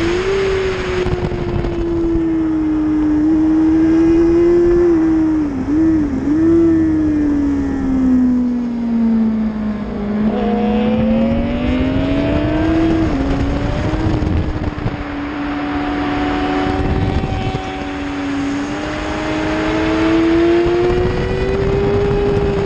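Suzuki GSX-R600 inline-four sport bike engine running at high revs on track, with wind rushing past. The pitch dips twice about six seconds in, falls steadily as the bike slows into a corner, then climbs again under acceleration with a brief drop at a gear change and keeps rising to the end.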